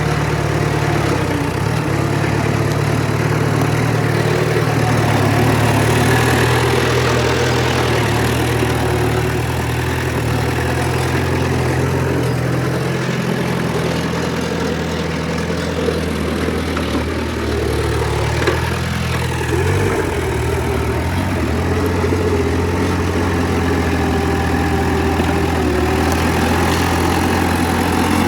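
Heavy diesel engine of earthmoving machinery running steadily, its pitch dipping and rising once about two-thirds of the way through.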